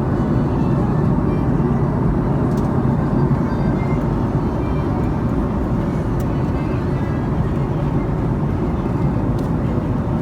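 Steady engine and airflow roar inside the economy cabin of an Airbus A310-304 in cruise, with a few faint clicks from the cabin.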